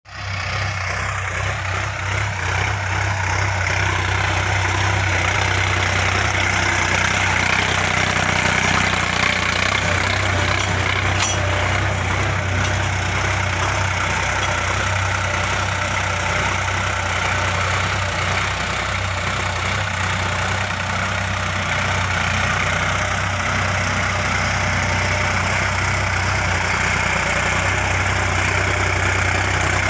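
Sonalika DI 50 RX tractor's diesel engine running steadily at an even, low pitch.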